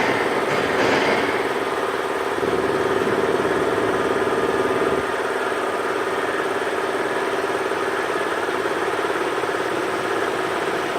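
Heavy engine idling steadily, giving a continuous even hum.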